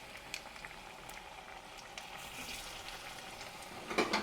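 Hot oil sizzling steadily as batter-coated potato chops deep-fry in a kadai, with scattered small pops and crackles. A brief louder clatter comes near the end.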